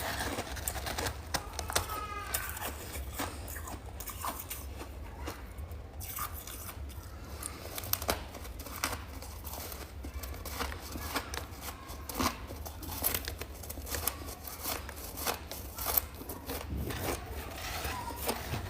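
Chunks of freezer frost being bitten and chewed close to the microphone: dense, irregular crunching and crackling with sharp snaps scattered throughout.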